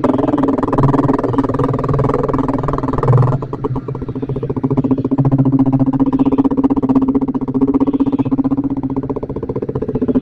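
Yamaha Vixion single-cylinder motorcycle engine running steadily while riding. Its note drops briefly about three seconds in, then holds steady again.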